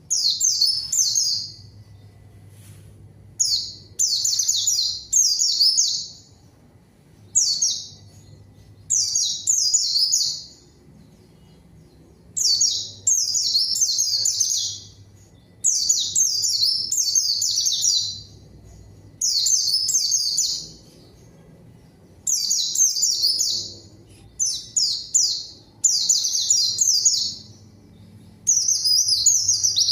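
A white-eye (pleci) singing in vigorous 'gacor' form. It delivers about a dozen rapid, jumbled, high-pitched song phrases, each one to two seconds long, with short pauses between them.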